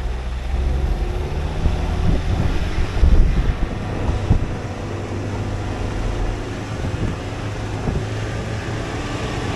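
A vehicle engine running steadily while moving, with wind buffeting the microphone and a few bumps about three to four seconds in.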